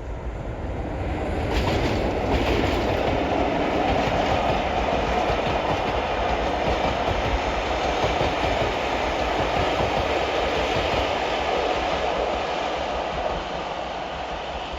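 A train running past on the line, its noise building over the first two seconds, holding steady, then easing off near the end.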